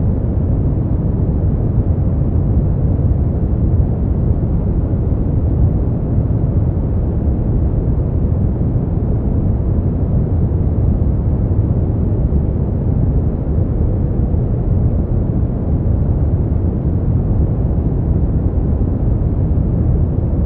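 Steady brown noise: an even, deep rumbling hiss, loudest in the bass and falling away towards the treble, with no change in level.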